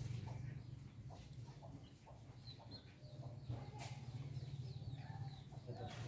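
Faint bird calls: scattered short high chirps and a few low clucking notes, over a steady low hum.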